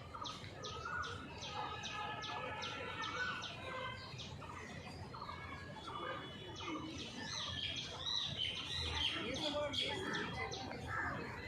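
Many birds chirping and calling at once, a dense chatter of short chirps and whistles that grows a little busier in the second half.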